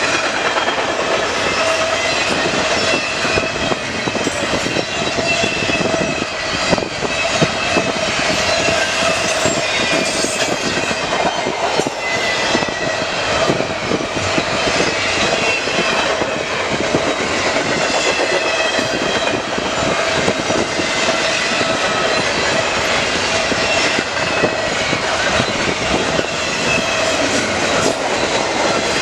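Double-stack intermodal freight cars rolling past steadily: a continuous rumble and rattle of steel wheels on rail, with frequent irregular clicks and knocks from the wheels and couplings.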